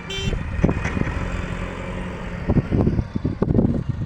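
Heavy diesel machinery engine running steadily, with a short high tone right at the start and a cluster of knocks about two and a half seconds in.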